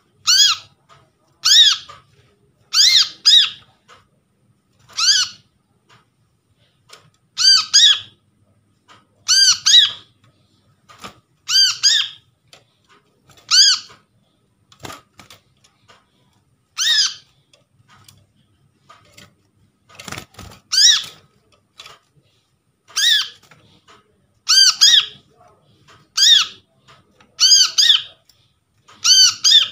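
Brown-throated sunbird (kolibri kelapa) giving sharp, squeaky call notes, often in quick pairs, repeated every second or two with short pauses.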